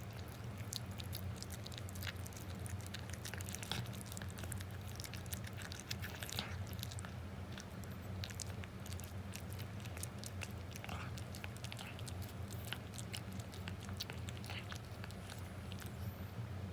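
A cat eating, with many small irregular wet clicks of chewing and licking, over a steady low hum.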